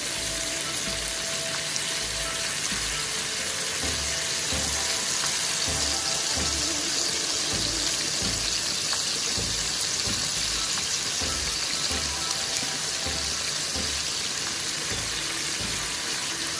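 Pieces of chicken back sizzling steadily in hot oil in a large frying pan, stirred and turned with a meat fork.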